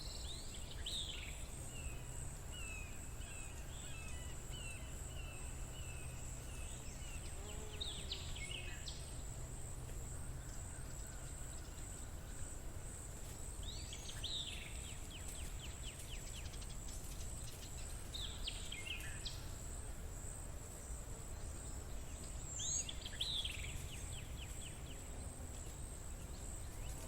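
Nature ambience: a bird repeats a short song phrase of quick, falling notes every five or six seconds over a steady, high, pulsing insect trill, with a low rumble underneath.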